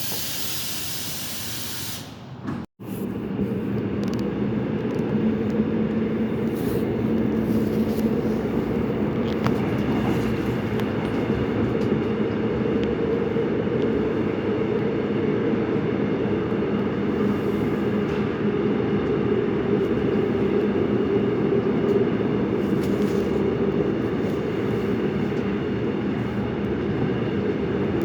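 Subway train running along the line, heard from inside the car: a steady rumble with a constant motor hum. It starts with a couple of seconds of hiss and a sudden brief break.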